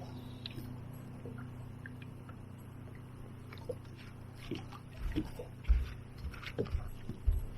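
Fishing boat noises: a steady low hum, joined about halfway through by irregular knocks and thumps against the boat.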